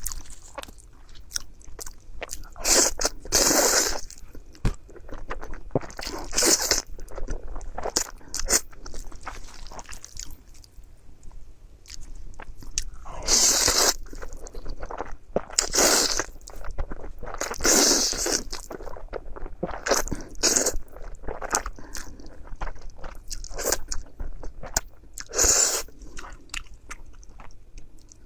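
Close-miked eating: steady chewing with small wet clicks, broken by louder crunching bursts every few seconds.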